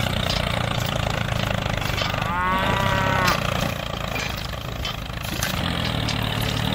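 Steady low engine drone like a tractor idling, with a cow mooing once for about a second a little over two seconds in.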